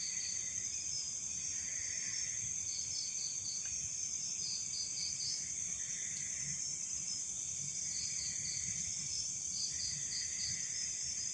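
Night insects: a steady high-pitched trill, with crickets chirping over it in short groups of quick pulses that repeat every second or two. Beneath them, a lower insect chorus swells and fades about every two seconds.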